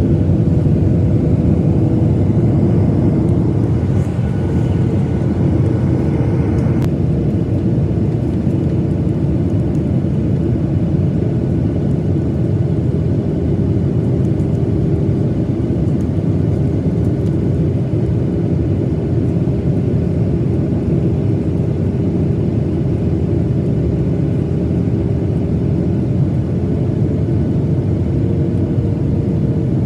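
Steady cabin noise inside a Boeing 737-900ER: a loud, even roar with a faint engine hum, and that hum drifts up slightly near the end.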